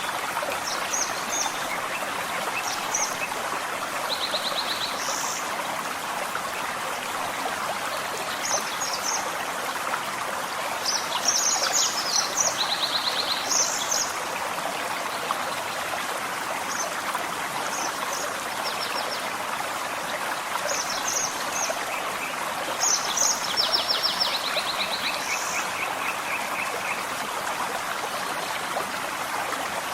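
Gentle forest stream running steadily, with small birds singing over it in short high chirps and rapid trills, busiest around the middle and again a little later.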